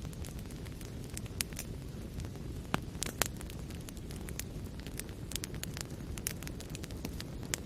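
Fire in a fireplace crackling: a steady low rush of flame under many quick sharp snaps and pops, with two louder pops about three seconds in.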